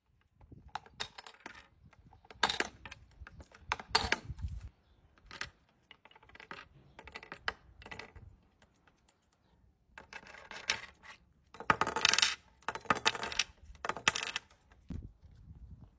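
Irregular bursts of sharp metallic clinks and rattles, the loudest cluster about three quarters of the way through.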